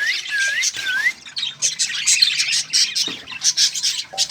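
Cockatiels calling: a string of short rising whistles in the first second, then a dense mix of chirps and squawks.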